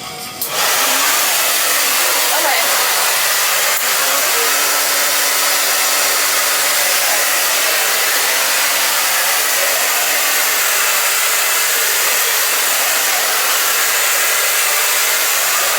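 Handheld hair dryer blowing steadily: a loud, even rush of air with a faint motor hum underneath. It switches on about half a second in.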